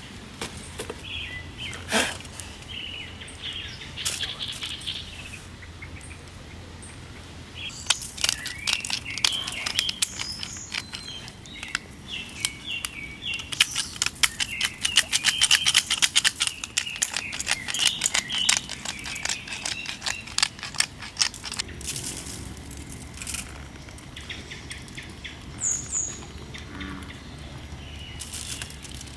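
Frogs calling in a chorus: rapid trains of clicking, rattling pulses that build up and are loudest about halfway through, then thin out. Short bird-like chirps come and go around them.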